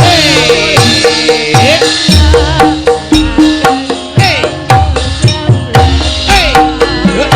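Javanese gamelan playing an instrumental passage: kendang hand-drum strokes, many sliding down in pitch, over ringing metallophone tones.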